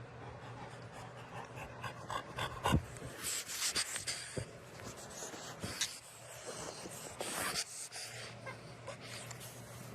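A pet panting heavily in a few noisy breaths, with a sharp knock about three seconds in.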